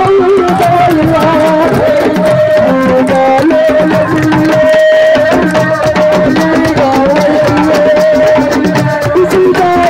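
Live Senegalese assiko band music: dense, fast drumming under a wavering lead melody held in long, sliding notes.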